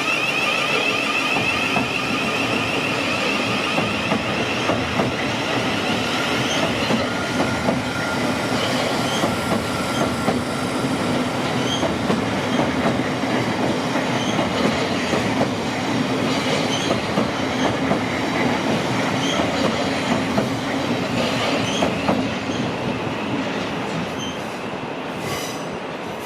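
Thameslink train running through the station, its wheels squealing with a steady high tone for the first few seconds. Then the wheels rumble and click rhythmically over the rail joints, and the sound fades near the end.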